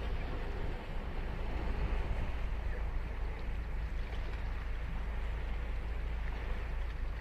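Ocean surf washing onto a sandy beach: a steady rush of breaking waves over a deep low rumble, swelling slightly about two seconds in.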